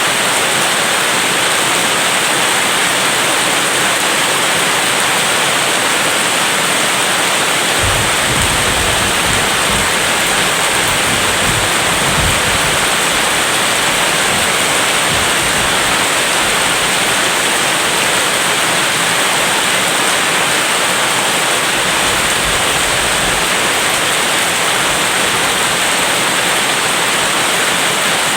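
Steady heavy rain hiss. About eight seconds in, a low thunder rumble rolls for several seconds, and a shorter, fainter one follows later.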